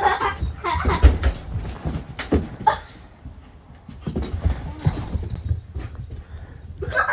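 A dog making short vocal sounds, several in a row, among scattered knocks.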